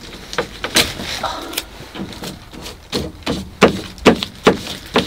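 A series of sharp knocks and taps, a dozen or so, coming close together in the second half.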